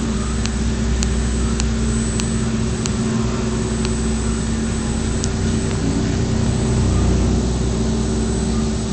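DMU 65 CNC machining centre milling a flange: a steady machine hum with a faint high whine, and sharp ticks about every half second or so through the first few seconds.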